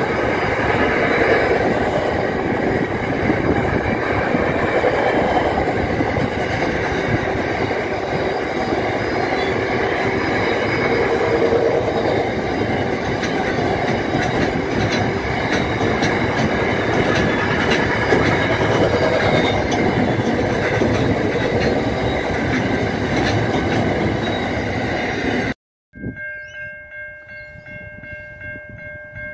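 A long freight train of open wagons rolling past: a steady rumble and rattle of wheels and couplings, with rapid clicks as the wheels pass over rail joints. Near the end it cuts off suddenly. In its place comes a quieter, steady ringing tone with a pulsing level: a level crossing's warning signal.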